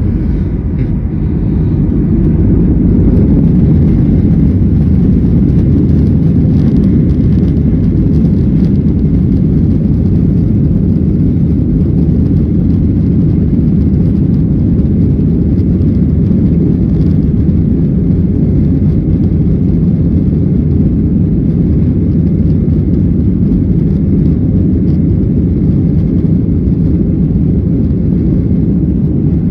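Boeing 737-800 jet engines at takeoff power, heard from inside the cabin as a loud, steady low rumble. It grows louder over the first few seconds, then holds through the takeoff run and climb.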